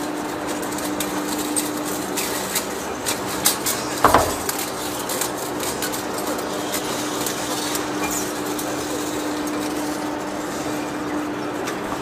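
Scattered metallic clinks and knocks over a steady machine hum, with one heavier clank about four seconds in; the knocking thins out in the second half while the hum goes on.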